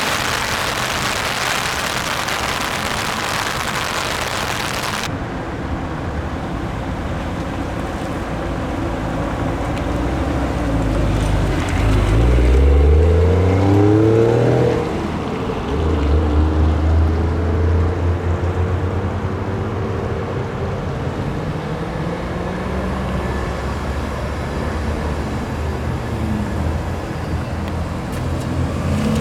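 Car engines at a car meet. After a steady hiss that cuts off suddenly about five seconds in, an engine revs up and pulls away with a climbing pitch. A deep engine then runs steadily, and another starts to rev near the end.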